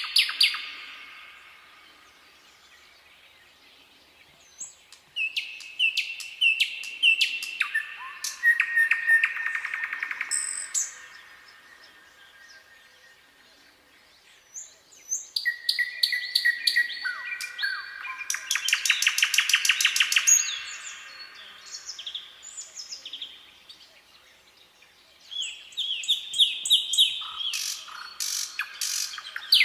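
Nightingale singing: phrases of rapid repeated notes and trills, with pauses of a few seconds between phrases.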